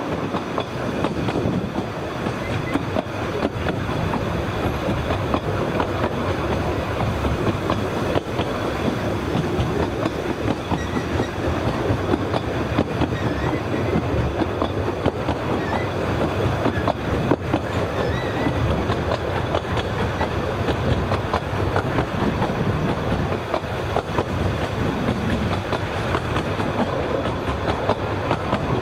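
Narrow-gauge passenger train running along the track: a steady rumble and rattle of the carriage wheels, with many small clicks and knocks throughout.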